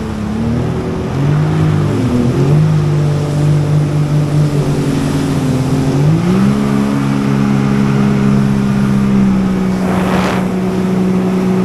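Jet ski engine running. Its pitch dips and climbs over the first couple of seconds, then rises about six seconds in and holds steady at a higher speed. Two brief whooshes of noise come near the end.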